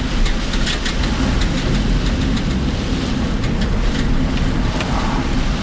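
A car driving through heavy typhoon rain, heard from inside: a steady low rumble of road and wind noise with irregular sharp taps of rain hitting the car.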